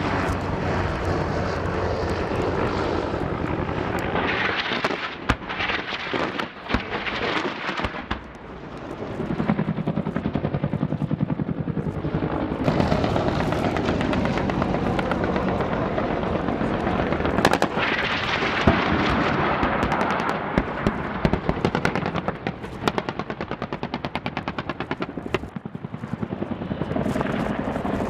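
Attack helicopter engine and rotor noise, with repeated sharp reports and fast bursts of gunfire, the densest bursts near the end.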